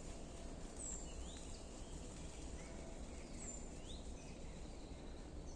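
Faint birdsong: a high falling whistle followed by a short rising chirp, twice, over a low steady background hiss and rumble.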